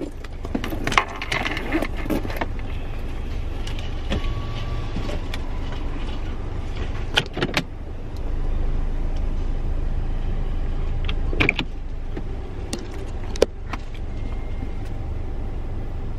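Car engine idling, a steady low rumble heard from inside the cabin, with a few sharp clicks and knocks from handling things in the car.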